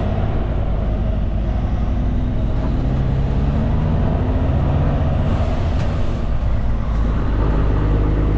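Cummins X15 diesel engine of a Kenworth K200 cabover road train pulling away under heavy load, heard from inside the cab as a steady low drone.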